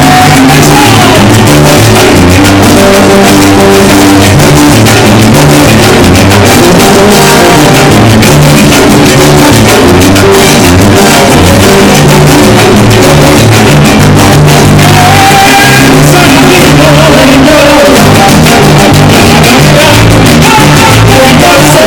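A live band playing loud Latin music with singing and a steady drum beat, heavily distorted by the phone's microphone.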